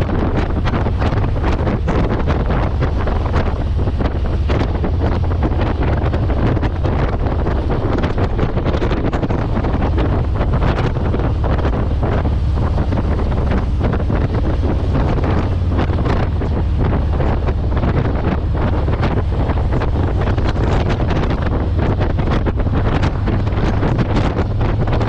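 Steady wind rushing and buffeting over the microphone of a moving motorcycle, with the motorcycle's engine and road noise underneath.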